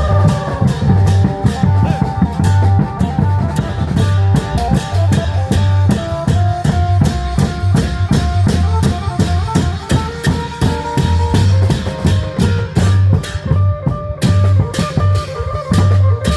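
Isan-style klong yao long-drum band playing live: a fast, driving drum rhythm with a plucked-string melody over it.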